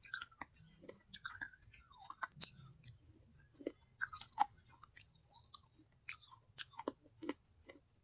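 Chewing and crunching of pieces of baked clay pot (handi): irregular sharp crunches and crackles.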